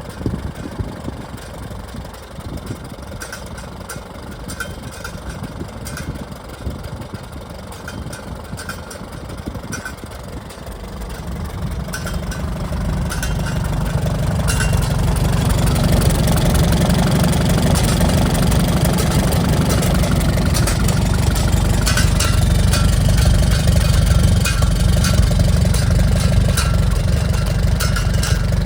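Farmall H tractor's four-cylinder engine running through its repaired exhaust manifold, new IH reproduction muffler and stainless rain cap. It runs steadily, then gets louder and heavier from about a third of the way in and stays that way.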